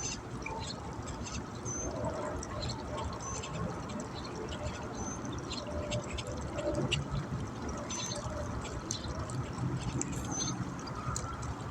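Waterside outdoor ambience: a steady wash of noise with scattered small clicks and short high chirps recurring every second or two.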